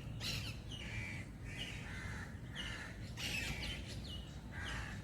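Birds calling in a tree: a steady run of short, sharp calls, each falling in pitch, a few a second.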